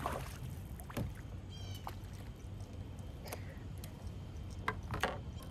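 A small bass splashing at the surface and being swung aboard a plastic sit-on-top kayak, with a few sharp knocks and splashes, the loudest about five seconds in.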